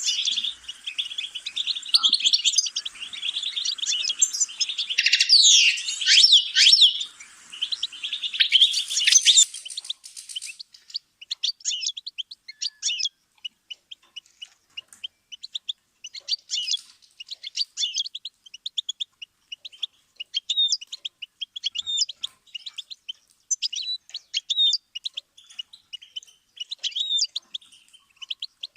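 Songbird singing: a dense, continuous warbling song for about the first ten seconds, then, after a sudden change, a sparser twittering song of short, rapid high notes broken by brief pauses.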